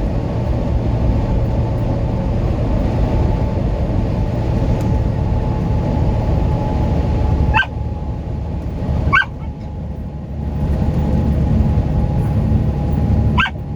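Steady road and engine noise inside a semi-truck cab at highway speed. Three brief rising squeaks cut through it, about seven and a half, nine and thirteen and a half seconds in.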